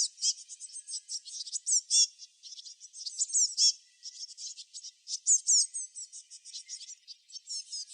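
Songbirds chirping: a dense chorus of short, high chirps and quick down-sweeping notes from several birds overlapping, with louder bunches every second or two.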